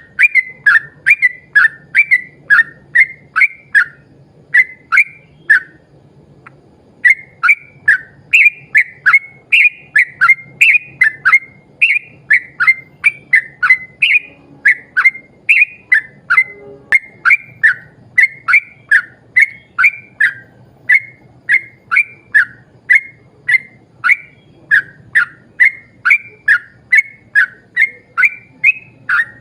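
Yellow-vented bulbul (trucuk) singing a long run of short, whistled, down-slurred notes, about two a second, with one short pause about six seconds in.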